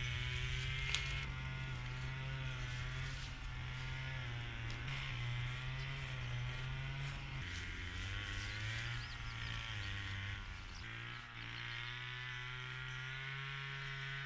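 A small engine running steadily, its pitch wavering up and down as the speed changes.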